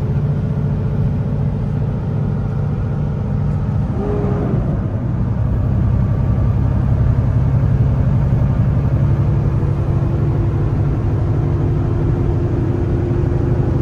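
Kenworth T680 semi-truck engine pulling steadily uphill, a constant low drone heard from inside the cab. The engine note shifts briefly about four seconds in and grows a little louder later on.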